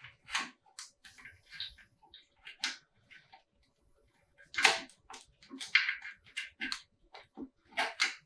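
Irregular clinks and knocks of hand tools and metal engine parts being handled during an engine teardown, a few scattered taps and then a busier cluster of clatter in the second half.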